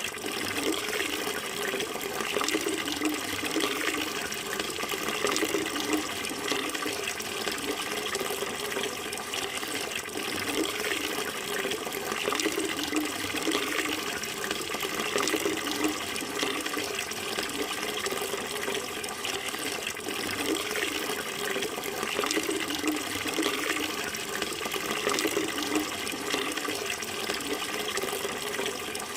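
Running water flowing steadily, a continuous rushing and splashing that never stops.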